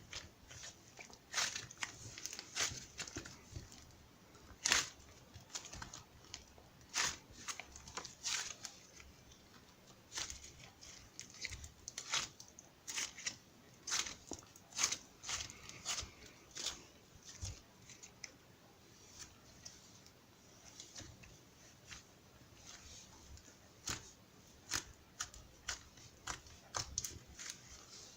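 Irregular crinkling and crackling handling sounds, short sharp crackles coming every second or so with quieter rustling between them.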